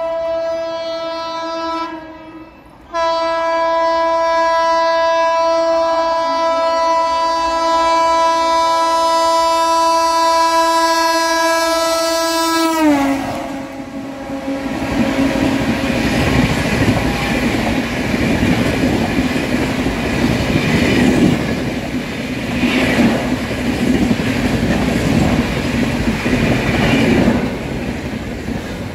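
Rajdhani Express passing at high speed. The locomotive's horn blows, breaks off briefly about two seconds in, then holds a long blast whose pitch drops sharply as the locomotive goes by. The coaches then rush past with a loud rumble and the clatter of wheels over rail joints.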